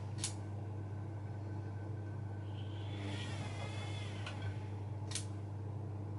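Bosch Maxx front-loading washing machine running, with a steady low hum throughout. A high whine wavers up and down around the middle, and there are two sharp clicks, one just after the start and one about five seconds in.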